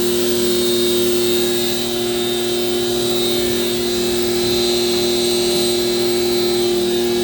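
Vacuum tanker truck's engine and vacuum pump running steadily during loading: a constant drone with a high whine over it.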